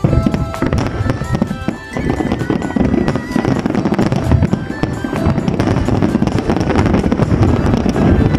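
Fireworks exploding in rapid, overlapping bursts, thicker from about two seconds in, with music playing over them.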